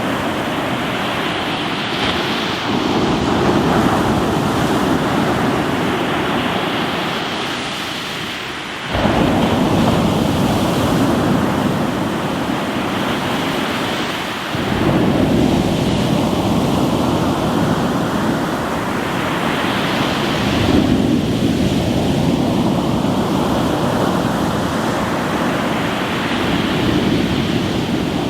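Sea waves breaking on a rocky shore: a continuous rush of surf, with sudden swells as waves come in about nine and fifteen seconds in.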